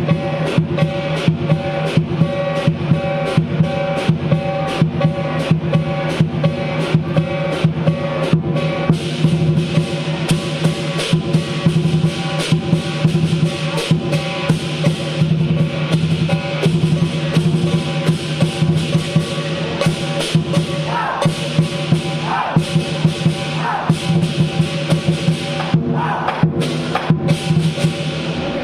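Lion dance percussion: a large drum beaten in a steady, fast rhythm with clashing cymbals and a ringing gong. The playing stops abruptly at the end.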